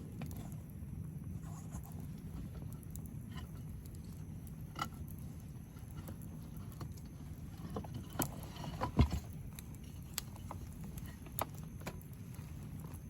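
Wood campfire burning with a steady low rustle and scattered crackles and pops, several sharper pops coming close together about eight to nine seconds in.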